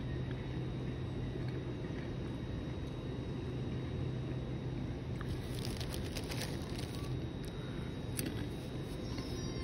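Hull Trains Class 802 bi-mode train running slowly into a station platform: a steady low hum, with a run of clicks and rattles from about halfway through.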